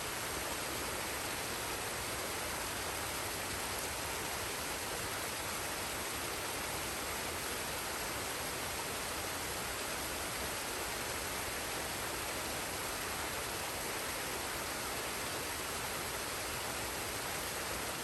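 Waterfall and forest stream: a steady, even rush of falling water.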